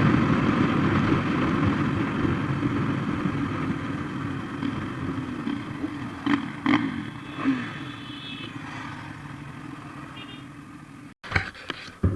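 Motorcycle running, its noise fading steadily over about ten seconds, with a few short knocks midway. The sound drops out briefly near the end.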